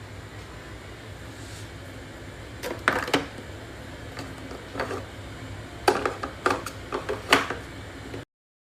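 Hard objects being handled over a steady low hum: a few sharp clicks and clinks about three seconds in, then a quicker cluster of knocks and clinks between about six and seven and a half seconds.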